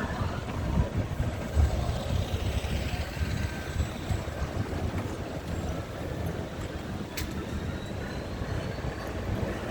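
Steady low rumble of vehicle engines and traffic, with a couple of faint short clicks near the end.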